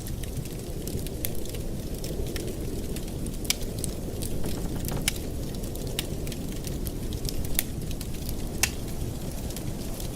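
Wood fire in a fireplace crackling, with irregular sharp pops over a steady low rumble of the flames; a few louder pops stand out.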